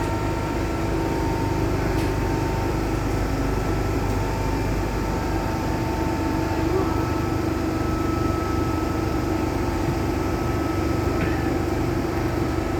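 Steady hum inside an MTR M-Train carriage on the Tsuen Wan Line, with a few faint held tones from the train's equipment and a couple of light clicks.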